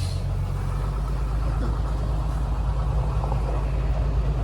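A vehicle's engine running steadily with a low rumble, carrying a load up to a cabin.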